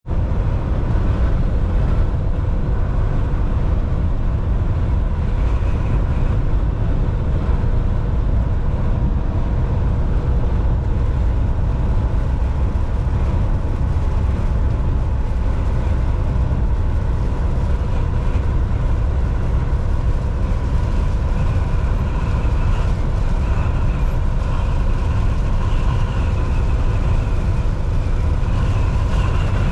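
Volvo VNL 760 semi truck driving at highway speed: a steady low engine drone and road noise, with a faint steady whine above it.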